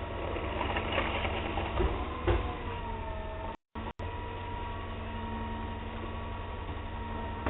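McNeilus garbage truck running steadily with a whine from its hydraulics and a couple of clanks early on. The sound drops out completely for a moment about halfway through.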